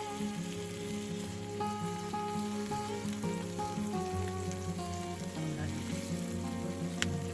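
Food sizzling on a hot iron griddle over a campfire: a steady frying hiss, with background music over it.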